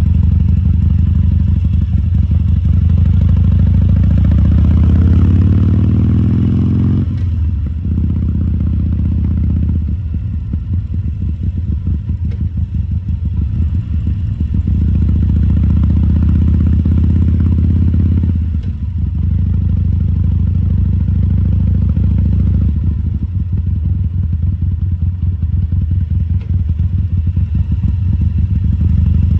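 2014 Harley-Davidson Sportster 1200 Custom's air-cooled 1200 cc V-twin running under changing throttle. It climbs in pitch for a few seconds, drops abruptly about seven seconds in, and rises and falls again several more times.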